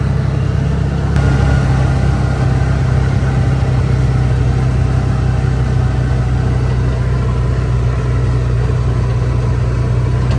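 Engine of a vehicle driving slowly along a field edge, running at a steady low hum with no change in speed.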